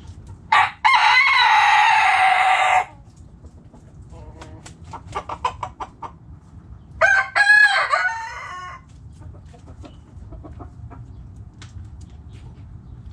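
Rooster crowing: one long crow beginning about half a second in and lasting about two seconds, dropping in pitch at the end. Then a quick run of hen clucks, and around seven seconds a second, shorter crow.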